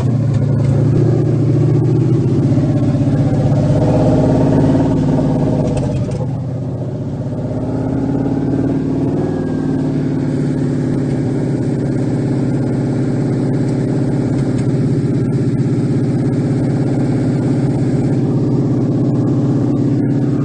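Rebuilt Ford Mustang Coyote 5.0 V8 idling steadily, dipping briefly about six seconds in before settling again.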